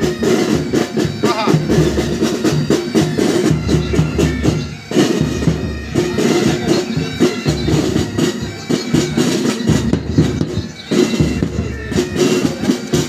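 Military pipe band playing: bagpipes sounding over snare (side) drums and bass drum, with two brief dips in the music about five and eleven seconds in.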